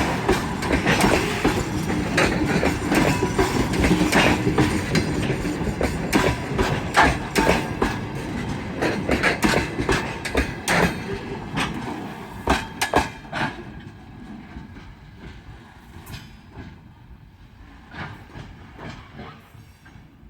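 Freight train wagons rolling past, their wheels clattering over rail joints in a quick, uneven run of knocks. The clatter dies away over the last third as the train moves off.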